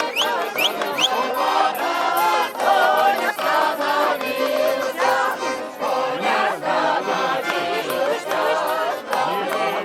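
Garmon (Russian accordion) dance music with a crowd of voices singing and shouting along together; a few quick high rising cries in the first second.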